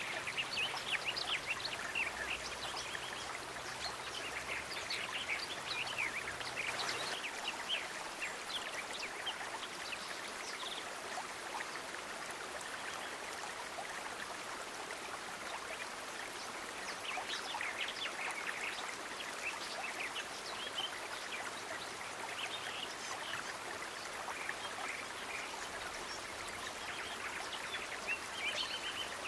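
Steady rush of running water, like a small stream, with frequent short high chirps from small animals over it and a brief buzzy trill near the end.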